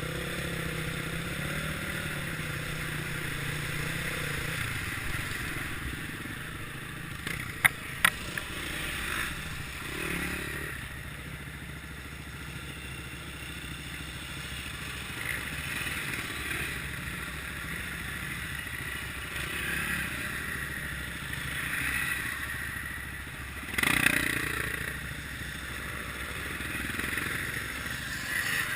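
Kawasaki KLX650R's single-cylinder four-stroke engine running steadily while the bike is ridden off-road, easing to a lower, quieter note after about five seconds. Two sharp clicks come about eight seconds in, and a short, loud burst of noise comes near the end.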